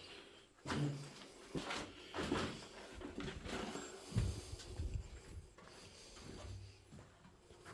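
Irregular knocks, scrapes and rustles of handling and movement, with a low thump about four seconds in.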